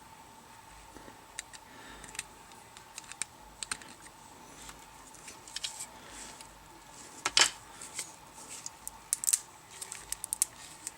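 Light clicking and ticking of 3D-printed plastic parts being handled and flexed back and forth to work leftover support structure loose, with one louder click about seven seconds in and quicker clicks near the end.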